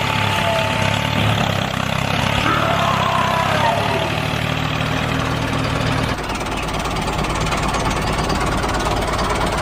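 An engine running at a steady idle, its low hum changing abruptly to a rougher, lower rumble about six seconds in.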